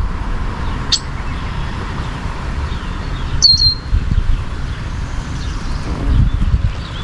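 Two short, high bird chirps, one about a second in and another a little past three seconds, over a steady low rumble.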